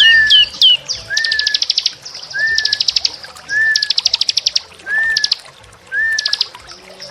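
Small songbirds singing together. Rapid high trills come in repeated bursts, a short rising whistle repeats about once a second beneath them, and three quick down-slurred notes sound at the start. It is a layered song-tutoring (masteran) recording of several small birds.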